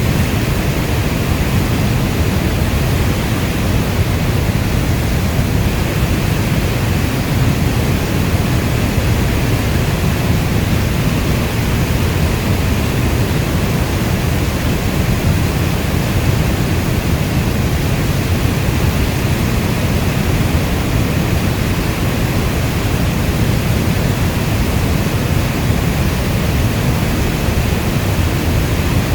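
Steady heavy rainfall: a dense, even rush weighted toward the low end, with no single drops or thunder standing out.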